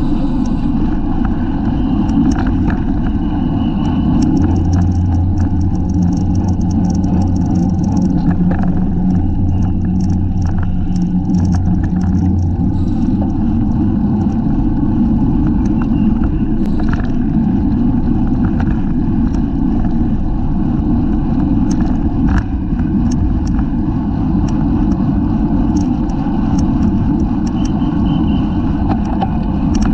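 Wind rushing over the microphone of a camera mounted on a bicycle being ridden in a race, with scattered clicks and rattles from the road and the bike. A low steady hum runs through it for several seconds in the first half.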